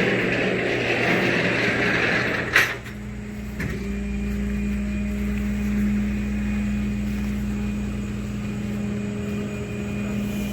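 A motor vehicle's engine running steadily, with a sharp knock about two and a half seconds in; after the knock a hissing noise drops away and the steady hum carries on.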